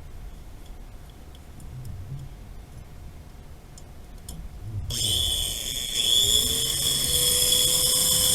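A few faint light clicks, then about five seconds in a motor starts abruptly: a loud steady high-pitched whine, with a lower tone that rises as it spins up and then holds.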